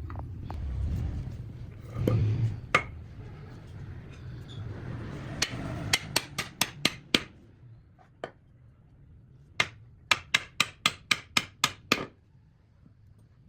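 Hammer blows in two quick runs of about four strikes a second: around six strikes about six seconds in, then about nine more toward the end. A low rumble at the start fades away.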